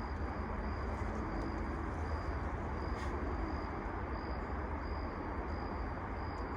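Outdoor background ambience: a steady low rumble with a faint high chirp repeating about every two-thirds of a second.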